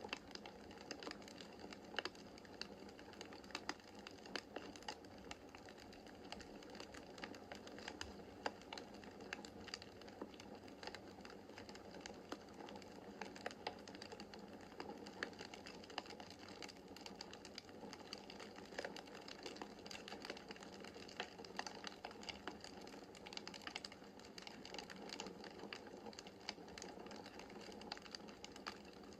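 Wood fire in a fireplace crackling steadily, with many small irregular pops and snaps over a soft hiss of burning logs.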